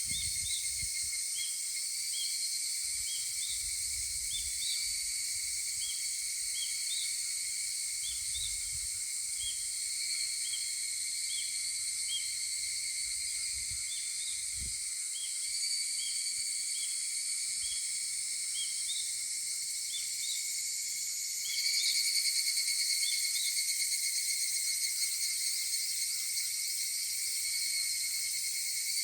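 A chorus of higurashi (evening cicadas, Tanna japonensis) calling steadily, growing louder about three quarters of the way through. Short chirps repeat about once or twice a second underneath.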